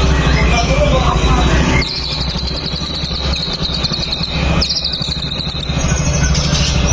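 White-rumped shama (murai batu) singing rapid high trills and rattling phrases, over a steady low pulsing hum.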